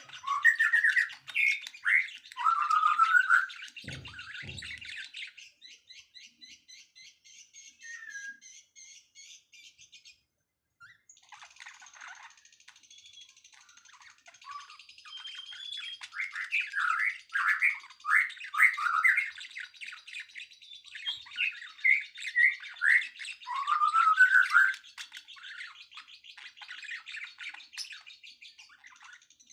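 Songbirds chirping and whistling in quick, varied phrases of short sweeping notes, with a fast rattling trill partway through. The sound drops out briefly about a third of the way in.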